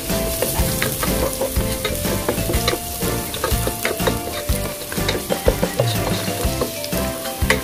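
Chopped garlic and onion sizzling in hot oil in a frying pan as they are sautéed, stirred with a utensil that clicks and scrapes against the pan many times.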